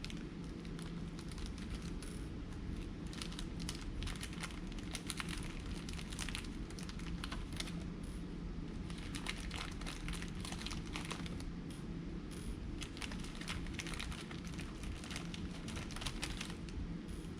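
Small plastic parts bag crinkling and rustling as hands dig through it for screws, with scattered light crackles throughout.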